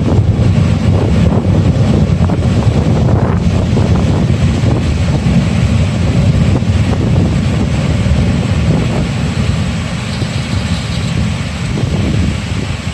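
Wind buffeting the microphone in a loud, uneven low rumble over a steady hiss of summer rain. The rumble eases a little about ten seconds in.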